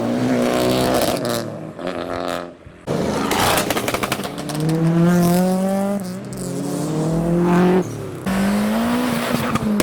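Modified car engine accelerating hard, its pitch climbing in repeated runs, with a short break between each, like upshifts through the gears. There is a brief crackle of sharp pops about three seconds in.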